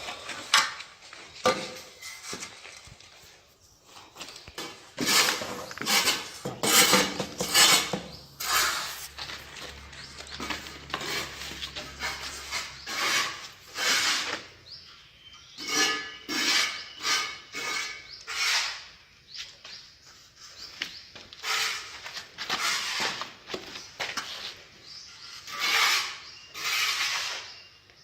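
A mason's trowel and hand tools scraping and tapping on mortar and tile, in irregular strokes, some sharp knocks and some longer scrapes.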